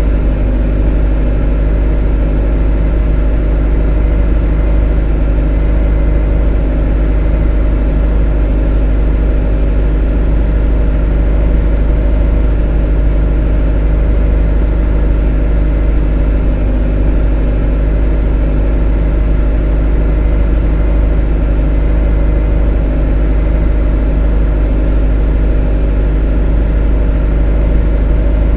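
A motor running steadily at a constant speed: a continuous low hum with a stack of steady tones above it, unchanging throughout.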